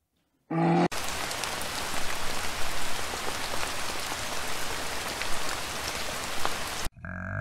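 Steady rain falling, an even hiss with scattered faint drop ticks, which starts abruptly about a second in and cuts off suddenly shortly before the end. Just before the rain, the louder last half-second of a deep brown bear growl is heard.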